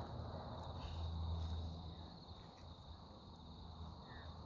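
Crickets chirring steadily at one high pitch, over a low rumble.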